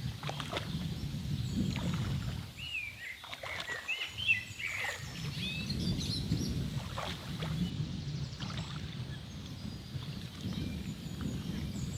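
Bird chirping several times, about three to five seconds in, over a steady low rumbling outdoor noise with scattered knocks.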